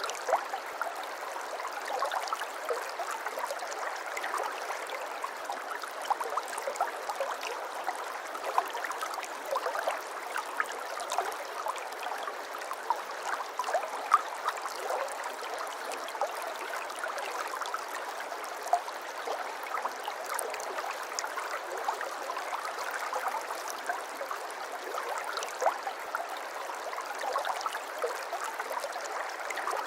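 Water flowing steadily in a small stream, trickling and babbling with many small splashes and gurgles.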